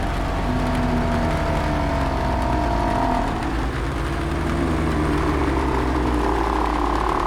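Horror ambience of steady rain on a roof over a low, constant rumble, with long drawn-out zombie moans that hold and slide in pitch.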